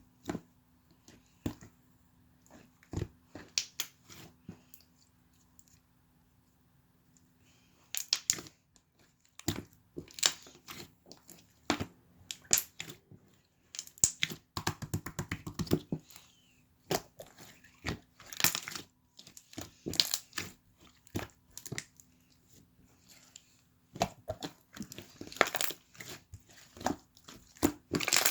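Slime being mixed and worked by hand: irregular sticky clicks and crackling pops in clusters, densest about halfway through.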